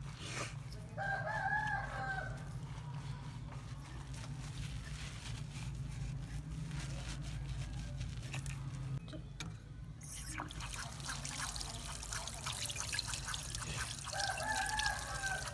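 A bird calling twice, a long wavering call about a second in and another near the end, over a steady low hum.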